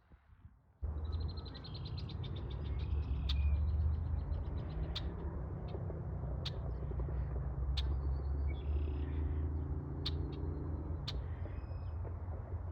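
Small birds calling outdoors: one gives a rapid trill of evenly spaced high notes near the start, and sharp short ticks recur about every one and a half seconds. Under them runs a steady low rumble, which is the loudest sound.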